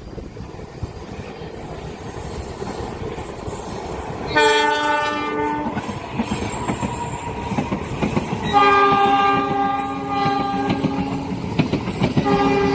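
A train approaching and running through a level crossing, its rumble and wheel clatter growing louder, while its horn sounds a chord three times: a short blast, a longer held blast, and a third starting near the end.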